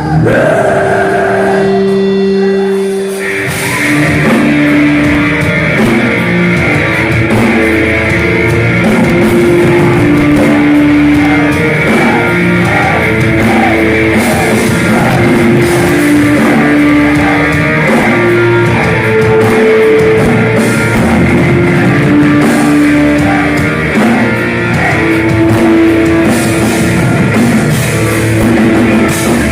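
Heavy metal band playing: for about the first three seconds a couple of long held guitar notes, then the full band with guitars and drums comes in and plays a melodic line of held notes over it.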